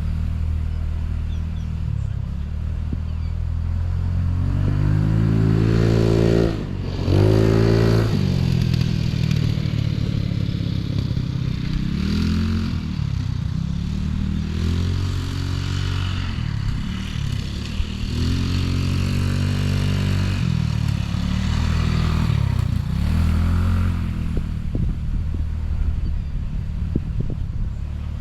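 Off-road vehicle engine running while ridden, its pitch rising and falling again and again as the throttle is opened and eased off. The engine cuts out briefly about six seconds in, then revs up sharply.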